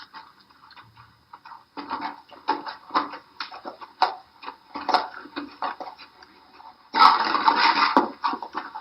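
Water splashing in irregular bursts, then a louder, steadier rush of water about seven seconds in.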